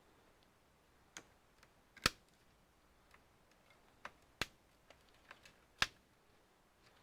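Small tools and parts clicking and tapping during computer disassembly: a handful of sharp, irregularly spaced clicks, the loudest about two seconds in, over faint room tone.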